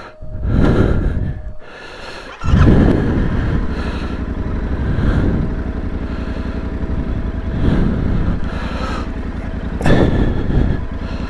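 Yamaha Ténéré 700's parallel-twin engine starts up about two and a half seconds in. It then runs steadily as the bike pulls away, the engine note swelling a few times as it rides off.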